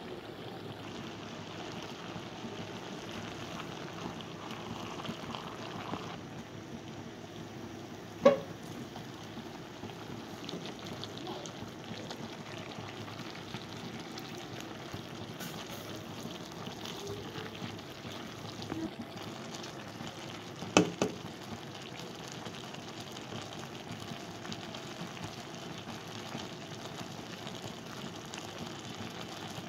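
Chicken and shredded cabbage cooking in a frying pan with a steady sizzle. One sharp knock about eight seconds in and two quick ones around twenty-one seconds.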